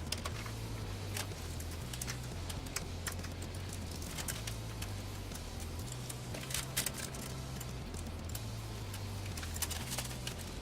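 Scattered light clicks and taps, irregular and a fraction of a second apart, over a low bass line that steps between a few notes about once a second.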